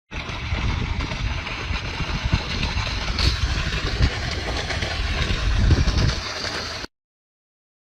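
Engine running steadily with a low rumble, cutting off suddenly near the end.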